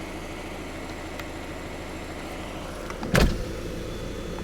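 Car running along a road at low speed, heard from inside: a steady engine and tyre rumble, with a single thump about three seconds in.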